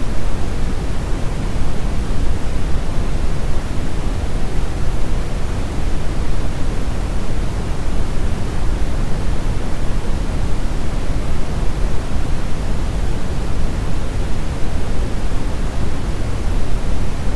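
Steady brown noise: a deep, even rushing hiss, heaviest in the low end, with no changes or events.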